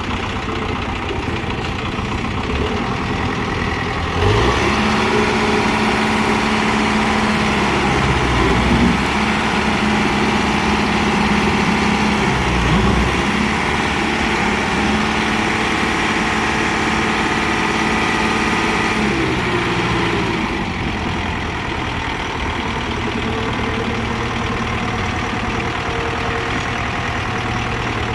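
Kubota M6040SU tractor's diesel engine idling, then revving up about four seconds in and holding higher revs, with a few brief dips, before dropping back to idle about two-thirds of the way through.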